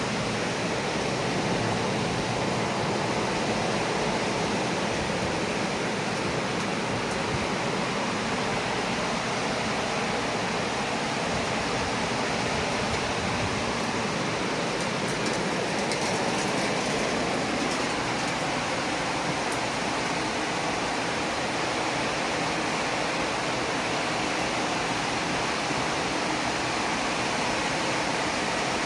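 Very heavy rain pouring down in a tropical rainstorm, a steady, dense rush with no let-up.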